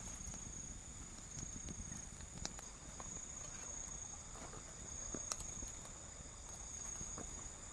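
Night insects, crickets, keeping up a steady high-pitched trill, with a few faint clicks, one about two and a half seconds in and one about five seconds in.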